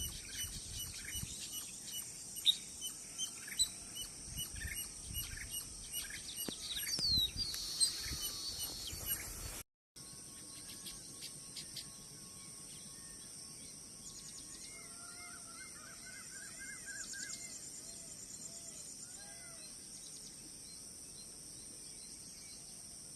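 Wild birds calling: many short chirps over a steady high hiss, then, after a brief break about ten seconds in, a run of repeated rising-and-falling notes.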